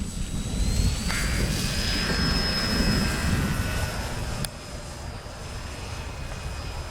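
Radio-controlled FMS FW 190 model warbird's electric motor and propeller whining. The whine rises in pitch over the first couple of seconds as the throttle opens, then holds steady and drops back somewhat after about four seconds. Heavy wind rumble buffets the microphone underneath.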